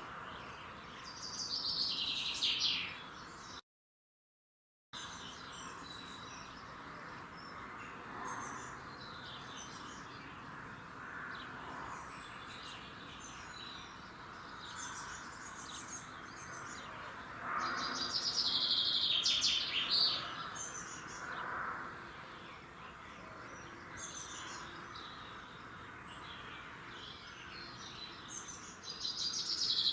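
Wild birds singing in the early morning, several loud phrases of quick high notes coming about two seconds in, again in the middle and near the end, over a steady background hiss. The sound drops out completely for about a second near the start.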